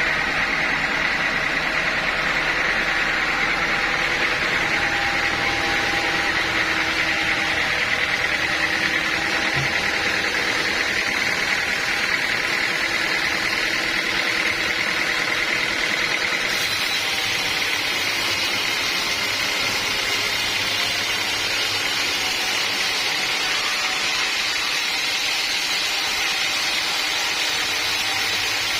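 Sawmill machinery running steadily, a continuous mechanical noise with a high whine, turning a little hissier just past halfway.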